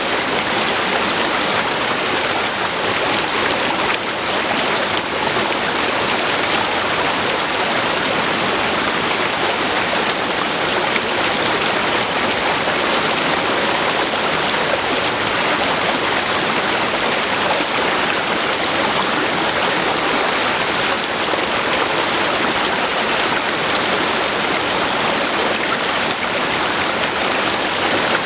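River water flowing steadily over rocks, a continuous even rushing without any separate splashes or breaks.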